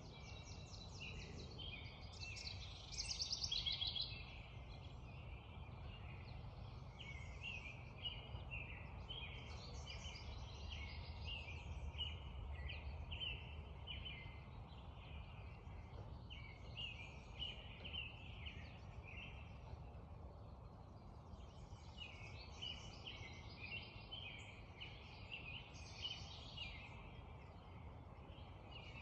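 A spring dawn chorus of songbirds: many short, repeated high chirps and songs overlapping throughout, with one louder rapid trill about three seconds in. A faint steady low rumble runs underneath.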